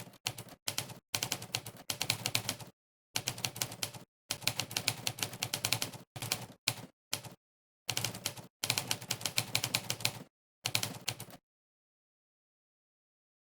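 Monkeytype's typewriter keystroke sound effect, one sharp clack per key press, in quick runs of typing broken by short pauses. It stops about two seconds before the end, leaving dead silence.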